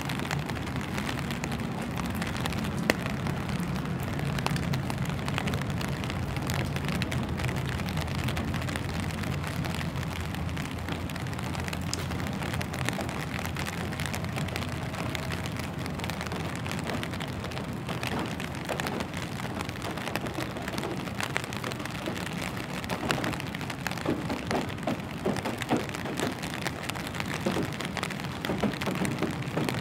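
Steady rain falling on a wet street, an even hiss with a low hum underneath that fades about halfway. More separate sharp ticks stand out in the second half.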